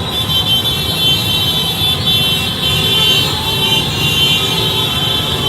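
Street celebration traffic: a dense mass of motorbikes running, with high-pitched horns sounding on and on over the engine rumble.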